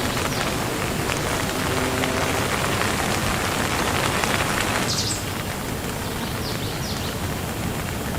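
Steady rain, a dense even hiss of many drops. About five seconds in it shifts abruptly to a slightly quieter, thinner hiss. A few faint short high chirps sound near the end.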